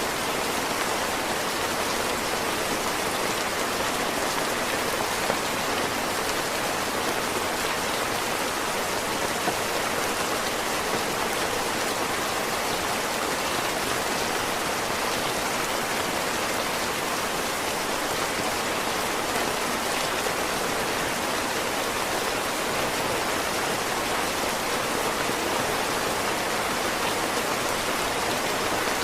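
Heavy rain falling steadily, an even, unbroken hiss, with a couple of brief louder ticks.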